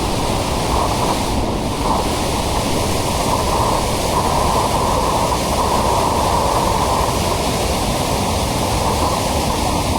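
A steady, even rush of water in heavy rain.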